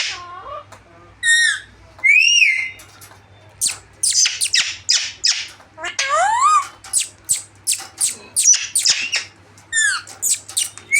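Pet parrots squawking and screeching in quick runs of short, sharp calls, mixed with a few longer whistled calls that rise and fall in pitch.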